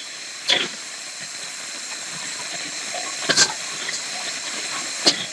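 Steady hiss of rain and wind, with three brief louder noises: about half a second in, just over three seconds in, and near the end.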